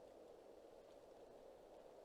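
Near silence: a faint, steady background hiss outdoors, with no calls or other events.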